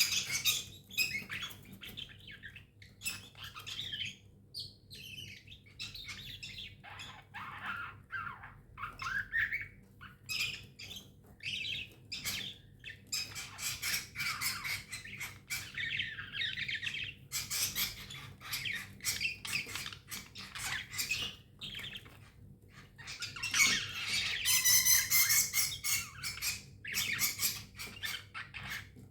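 Pet budgerigars chattering: a steady run of quick chirps, warbles and harsh squawks, loudest and densest about four-fifths of the way through.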